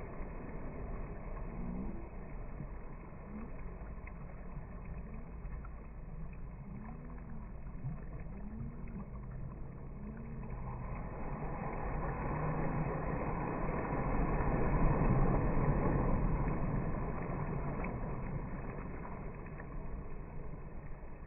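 A motor passing by: a low steady rumble with some wavering pitch, then a swell that builds to a peak about two-thirds of the way through and fades again.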